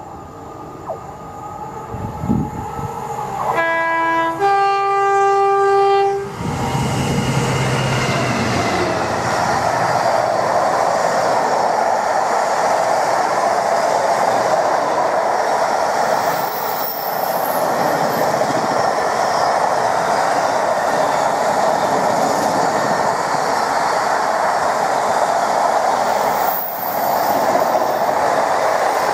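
Freight train sounding its two-tone horn on approach, a short lower note and then a longer higher one. A long intermodal container train then passes at speed, its wagons running steadily and loudly over the rails.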